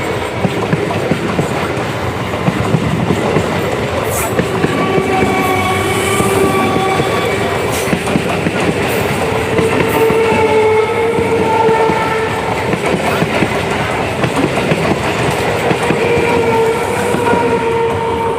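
Old electric multiple unit (EMU) local train running with its wheels clattering over the rail joints, while train horns sound several long steady blasts over the rumble.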